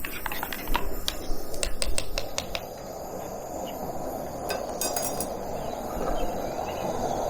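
Outdoor ambience: a steady low rush of noise, with a run of sharp ticks in the first two or three seconds and a brief high buzzing chirp about five seconds in.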